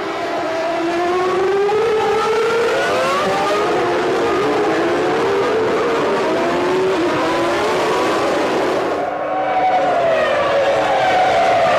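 Several 1995 Formula 1 car engines running at high revs, overlapping, their pitch rising and falling as they change gear. There is a brief dip about nine seconds in, before another engine note takes over.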